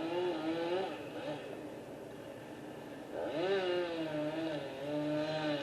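Distant chainsaw revving up and down, twice, as it cuts into a tree.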